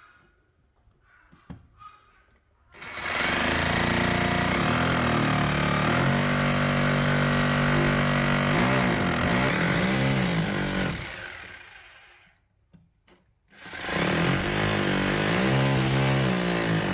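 Electric drill drilling holes, run in two long bursts: the first starts about three seconds in and dies away around eleven seconds, the second starts about fourteen seconds in. The motor's whine dips and recovers as the bit loads up.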